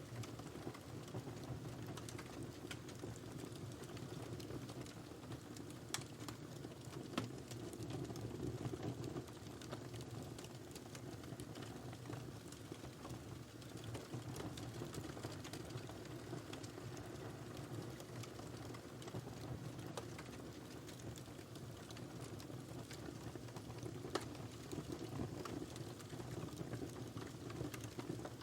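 Wood fire burning in a fireplace: a steady low rush of flame with scattered sharp crackles and pops, the loudest pops about six seconds in, a second later, and near the end.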